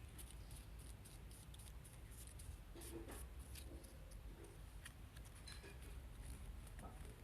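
Faint rustling and small scattered clicks of paper being handled and creased while folding a paper airplane, over a low steady background hum.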